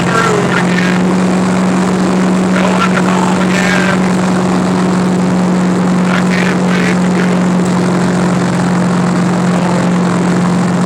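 A vehicle engine droning steadily at one constant pitch, with road noise, as when cruising at a steady speed.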